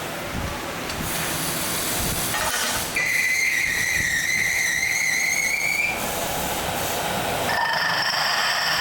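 Factory machinery running with a steady hiss; a high, steady whine comes in about three seconds in, lasts about three seconds, and starts again near the end.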